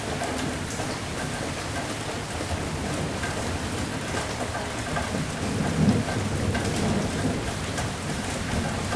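Steady rain falling, with a low roll of thunder that swells a little past the middle and peaks about six seconds in.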